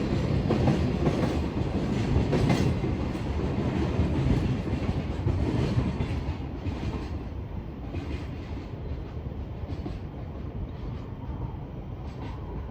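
Freight train wagons rolling past, rumbling, with a clickety-clack over the rail joints. The sound drops noticeably after about six seconds as the train draws away.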